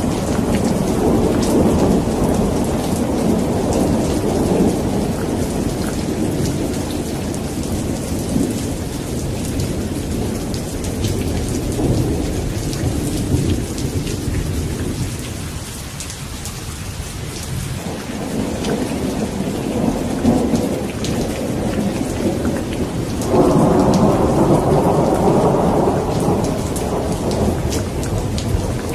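Steady rain falling in a thunderstorm, with the patter of drops over rolling thunder. The low rumble eases off midway and then swells again suddenly a little over 23 seconds in.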